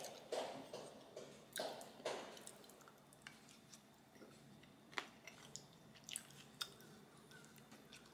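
Close-miked chewing of a mouthful of young radish kimchi, about two chews a second. After about two seconds the chewing dies down to a few faint clicks.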